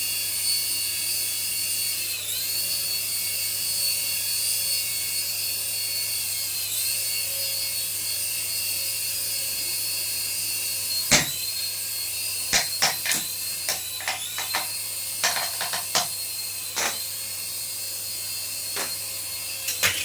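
Small electric motor of a remote-control toy whining steadily at a high pitch, dipping in speed briefly every few seconds. From about halfway, a series of sharp clicks and knocks is heard over it, the first the loudest.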